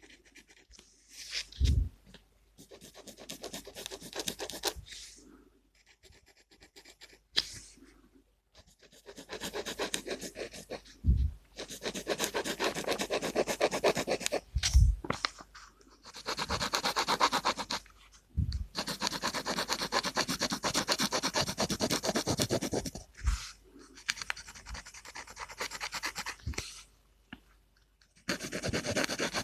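Gel pen scratching on paper in quick back-and-forth colouring strokes, in stretches of several seconds with short pauses between, and a few soft low thumps.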